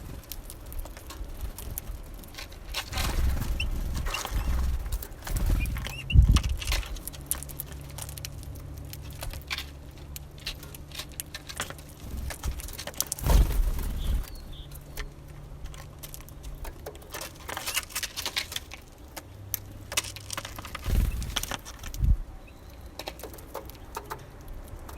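Small birds at a seed feeder: irregular pecking taps, clicks and scrabbling, with a few dull knocks and a few faint short calls.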